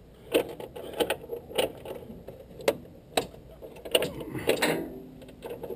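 Irregular mechanical clicks and knocks, about eight in all, spaced unevenly, like metal parts or tools being handled.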